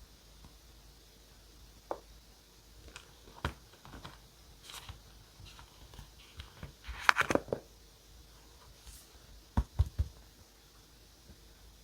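Paper and journaling materials being handled: scattered light rustles and taps, a denser cluster of paper rustling about seven seconds in, then three soft thumps near the end.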